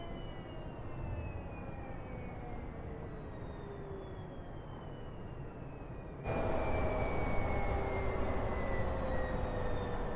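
Electric truck drive whine: several thin tones gliding slowly down in pitch over a rumble of road noise, as the truck slows. About six seconds in the sound jumps louder and the falling whine starts again from a higher pitch.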